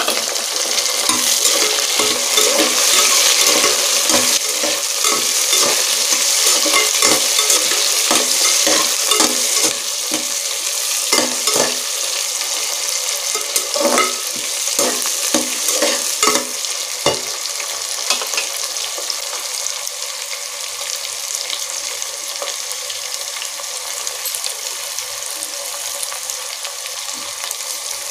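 Chopped tomatoes, onion and garlic sizzling in hot oil in a pressure cooker pot, just after the tomatoes go in. A metal ladle stirs and scrapes against the pot with many clinks until a little past halfway, after which only the sizzle goes on, slightly quieter.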